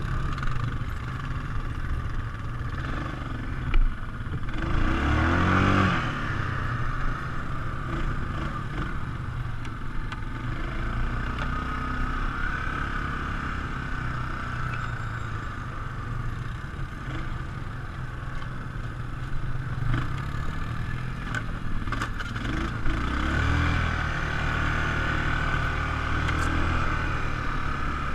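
ATV engine running while riding, revving up with a rising pitch about five seconds in and swelling again near the end, with some clatter from the machine.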